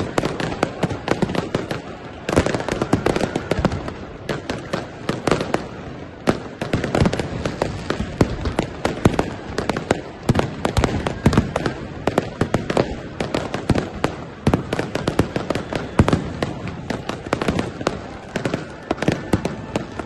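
Fireworks and firecrackers going off in rapid succession: a dense, unbroken run of sharp bangs and crackles, several a second.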